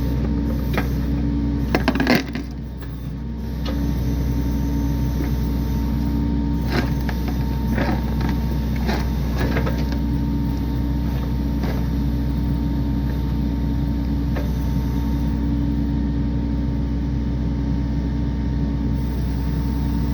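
A vehicle or machine engine running steadily, with a few clicks and knocks about two seconds in and again between seven and ten seconds.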